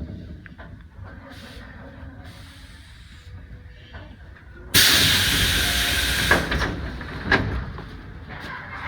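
Electric commuter train's low running rumble, then a sudden loud hiss of compressed air about halfway through that fades over a few seconds, broken by two sharp clacks: the air system venting as the train comes to a stand at the station.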